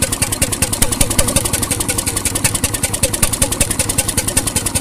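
1921 RSM 3½ HP hotbulb marine engine running steadily at idle, with an even, rapid beat of firing strokes.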